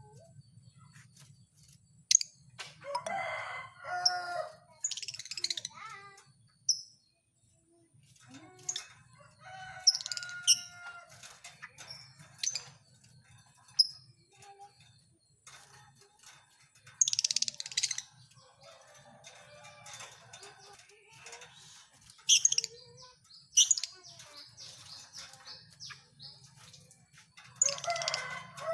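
Lovebirds calling: short, shrill chirps and screeches at irregular intervals, with a few longer calls in between.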